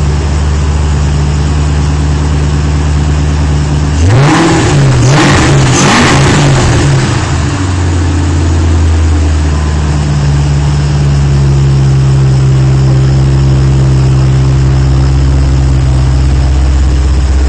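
Engine of a freshly built Fox-body project car running on its first start. It idles steadily, is revved twice about four seconds in, then settles back to a steady idle.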